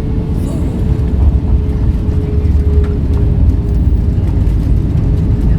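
Airliner cabin noise: a loud, steady low rumble of engines and airflow, with a faint steady hum that fades out about four seconds in.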